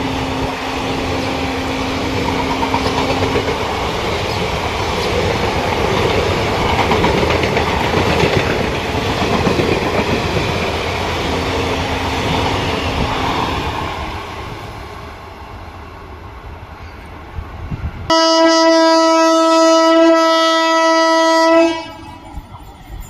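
Indian Railways passenger coaches rolling past close by, wheels clattering over the rail joints; the noise fades as the train moves away. Then, about 18 seconds in, an electric locomotive's horn sounds one loud, steady blast of about three and a half seconds that stops abruptly.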